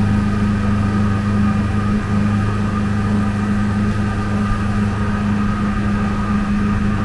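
Boat's engine running with a steady, even drone, heard from on board.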